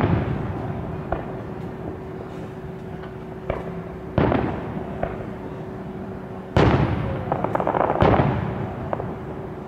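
Aerial firework shells bursting overhead: a bang at the start, another about four seconds in and two more near the end, each fading away over about a second. Smaller pops fall in between, and fine crackling follows the last bursts.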